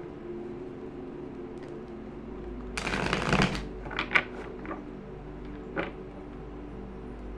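Tarot cards being shuffled in a short, dense riffle about three seconds in, followed by a few sharp taps and snaps as cards are handled and laid down.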